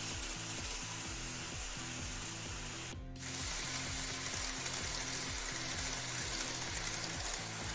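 N-scale model trains running on track, a steady rattling hiss of wheels and motor over background music, with a brief drop-out about three seconds in.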